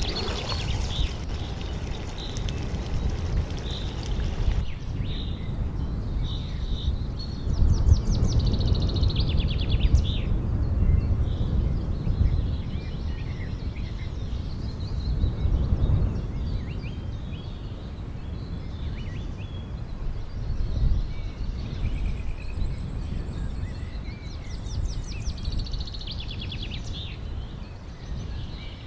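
Outdoor ambience: a steady low rumble like wind, with birds chirping and trilling now and then.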